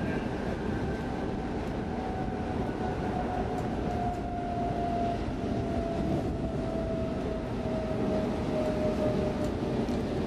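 X10 commuter electric multiple unit running along the track, heard from inside the passenger car: a steady rumbling ride noise with a faint whine that slowly falls in pitch.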